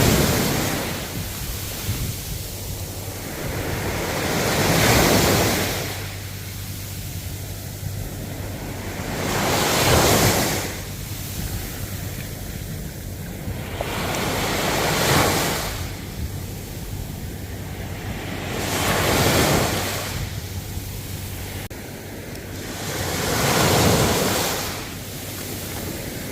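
Ocean waves breaking and washing up the shore, a surge about every four to five seconds, five in all, over a steady surf hiss.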